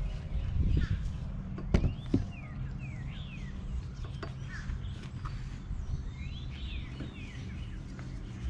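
Small birds chirping repeatedly over a steady low background hum, with two sharp knocks about two seconds in.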